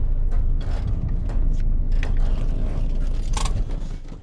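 Van running, heard from inside the cabin: a steady low engine and road rumble with scattered knocks and rattles, dropping away near the end as the van slows.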